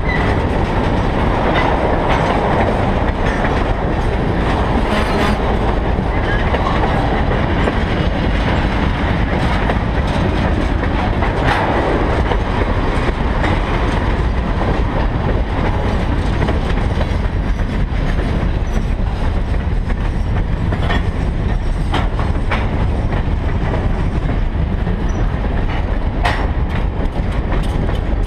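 Railroad tank cars and a covered hopper of a freight train rolling past over a grade crossing, with a steady low rumble and irregular wheel clacks over the rail joints. The cars are being shoved from the rear by the locomotive, so no engine leads them.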